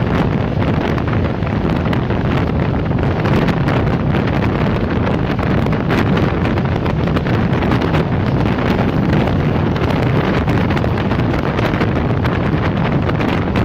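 Wind buffeting the microphone over the steady running noise of a passenger train at speed, heard from an open carriage window.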